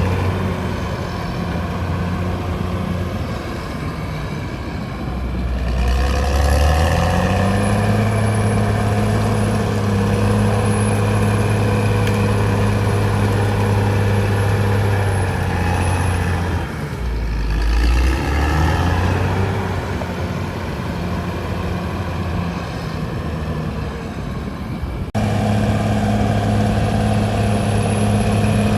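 A CAT D6R XL bulldozer's diesel engine running, revving up about a quarter of the way in and holding steady at higher revs, then dropping back around the middle. The sound changes abruptly near the end.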